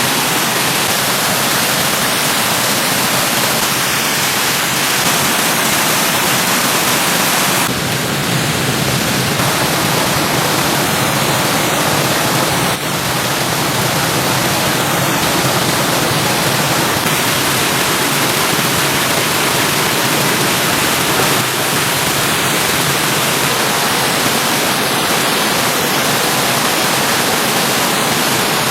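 Rain-swollen stream water rushing steadily.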